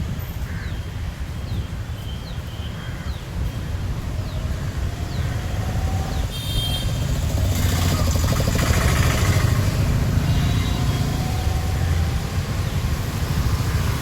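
A motor vehicle's engine running with a low rumble, growing louder for a few seconds in the middle and then easing. Short high bird chirps are heard in the first few seconds.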